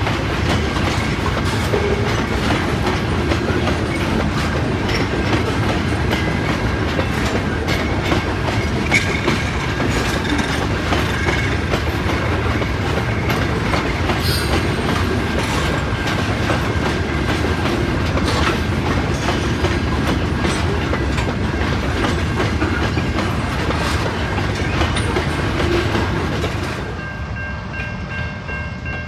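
Freight train cars rolling past close by: a steady rumble with wheels clicking over the rail joints. About 27 seconds in, the sound drops and turns quieter.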